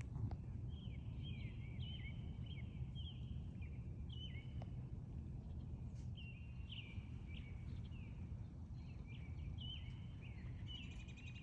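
Small songbirds chirping repeatedly in short, quick downward-sliding notes, over a steady low rumble of outdoor background noise.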